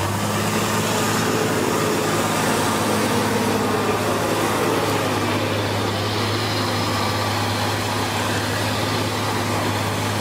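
Heavy machine's diesel engine running steadily with an even low hum.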